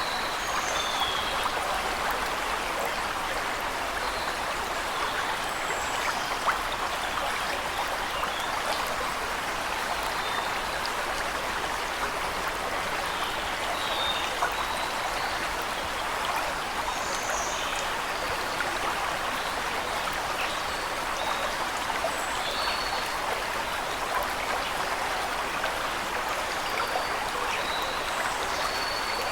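Waterfall water splashing and rushing steadily, with short, high bird chirps scattered over it here and there.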